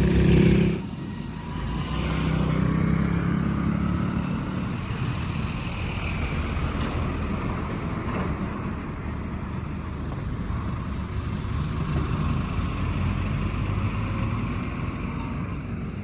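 Motor vehicle engine running steadily with a low hum, loudness dropping suddenly just under a second in.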